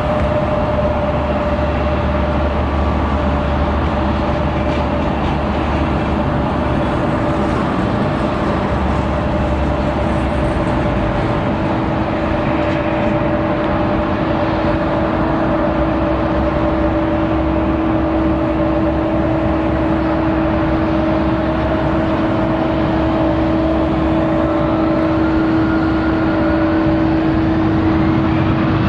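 Boeing 787-10 jet engines running with a steady whine over a broad roar, the pitch rising over the last few seconds as the engines spool up.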